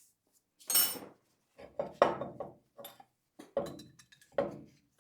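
Small metal parts being handled and set down: about six separate clinks and knocks spread over a few seconds, some with a brief metallic ring.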